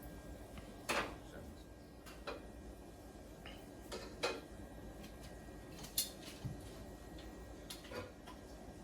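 Faint, scattered clinks and taps of kitchen utensils against a pot and a foil pan, about six brief knocks a second or two apart, as steamed turkey wings are moved into the pan.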